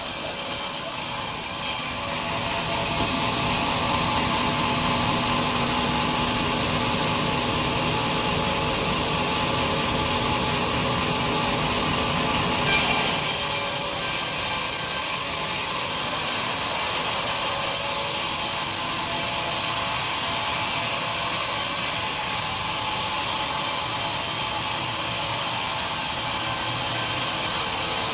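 Large sawmill bandsaw cutting through a big log with a steady, hissing rasp. About 13 s in the sound turns suddenly louder and brighter and stays that way.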